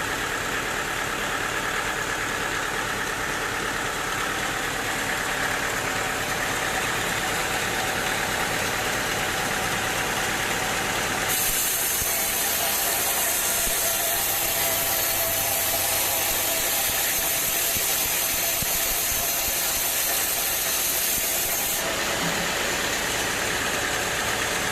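Sawmill machinery running steadily with an engine-like hum. A loud high hiss joins in for about ten seconds partway through, then stops.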